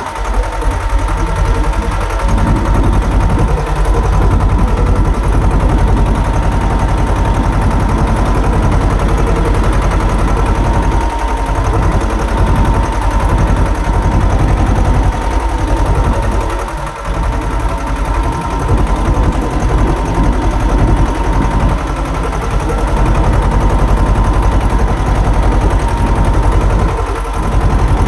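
Swaraj tractor's diesel engine running steadily under load with a rapid low exhaust beat, pulling a cultivator.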